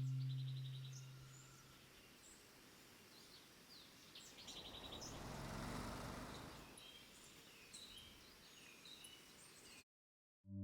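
Small birds chirping and trilling over faint outdoor background noise, with a swell of rushing noise that rises and falls around the middle. A low sustained tone fades out at the start.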